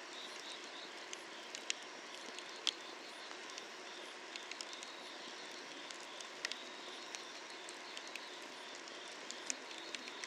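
Wood fire crackling under a cast-iron cauldron, with sharp irregular pops over a steady hiss. Insects chirp in a steady pulsing trill throughout.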